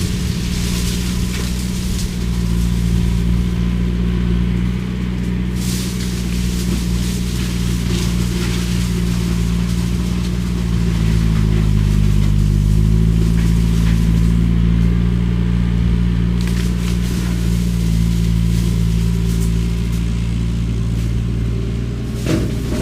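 Skid steer with a shredder head running steadily, shredding cane. The engine pitch dips briefly about halfway through, then comes back up.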